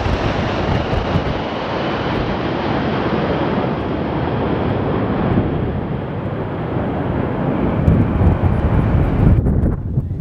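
Jet airliner passing, a loud rushing engine noise that grows duller as its high hiss slowly fades. Wind gusts on the microphone add a low buffeting, and the hiss drops away abruptly near the end.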